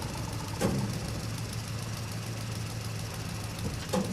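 Truck engine running steadily at low speed, with two sharp knocks, one about a second in and one near the end.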